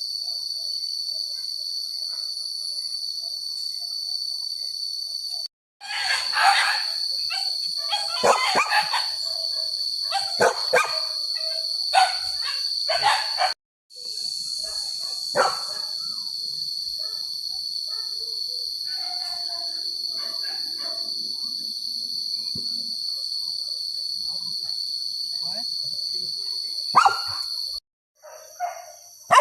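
Steady high-pitched drone of forest insects, with hunting dogs barking in a cluster of loud barks about six to thirteen seconds in and a few more later.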